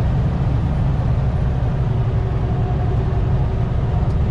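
Steady low engine and road rumble inside a semi-truck's cab as it drives down the highway.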